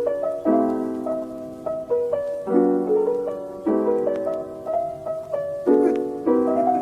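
Soft background piano music: gentle chords struck about once a second or so, each fading, under a simple melody.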